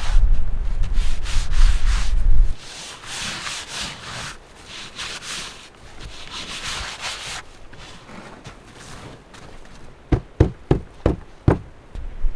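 Strong wind buffeting the microphone, cut off abruptly about two and a half seconds in. Then come several seconds of scraping, rubbing strokes on wood, and near the end five quick sharp knocks.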